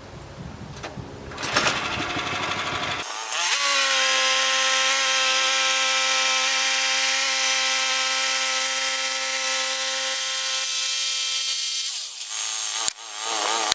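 Woodland Mills HM122 portable bandsaw mill's gas engine revving up about three seconds in and running at steady high speed, the blade spinning up to saw a board. Near the end it throttles back, with a falling pitch, then a click.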